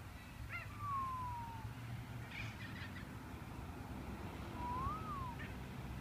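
A bird giving clear whistled notes: a long falling whistle about half a second in, and a rising-then-falling whistle near the end, with a few short chirps in between. A low steady hum runs underneath.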